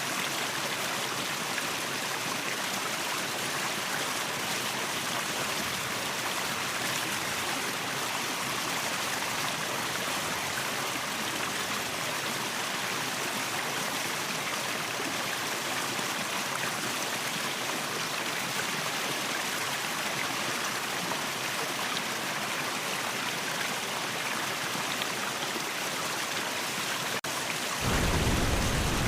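Steady rushing water of a waterfall, an even hiss with little low end. Near the end it drops out for an instant and comes back louder and fuller, with a deep rumble.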